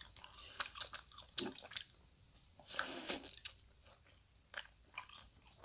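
Close-up chewing and biting of soft Korean fish cake (eomuk): wet mouth clicks and smacks, with a brief breathy rush of air about three seconds in.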